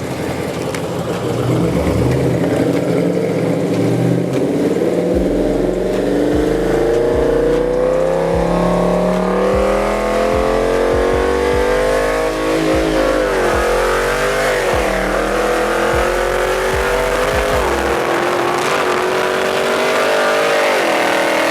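Muscle car engine at full throttle during a street race, its note climbing steadily as it accelerates, stepping down at gear changes about 13 and 15 seconds in, then holding steady near the end.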